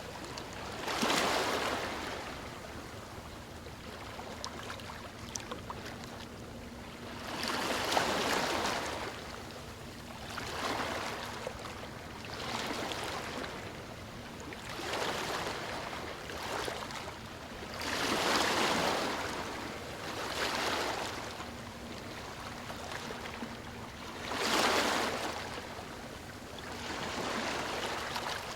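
Gentle ocean waves lapping on a shore, each wash swelling and fading every two to three seconds, a few breaking louder than the rest.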